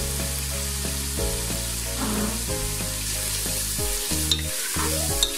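Onion, ginger and garlic paste with freshly added coriander powder sizzling in hot oil in a pan while a spatula stirs it, with a couple of sharp clicks of the spatula on the pan near the end. Background music plays over it.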